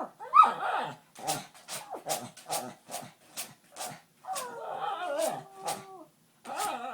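Agitated dog making odd vocalizations instead of ordinary barks: a rising yelp, a run of short yips about two a second, then a long wavering whine-like call, starting again near the end.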